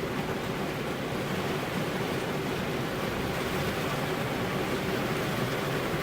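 Steady heavy rain, an even hiss with no single drops standing out, over a faint steady hum.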